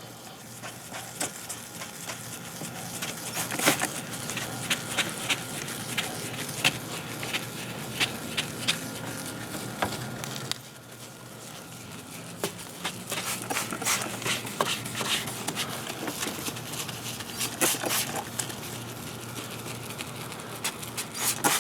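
Hand wet-sanding of a plastic headlight lens with a 3000-grit sanding pad: continuous rubbing strokes with many small irregular ticks. The sound drops away briefly about halfway through, then the sanding resumes.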